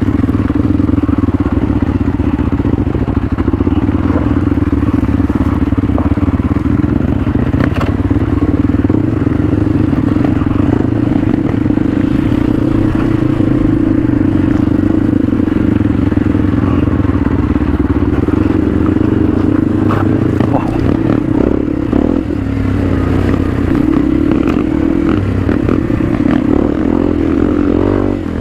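Motorcycle engine running at a steady pitch while riding, with rattling and clatter over the trail.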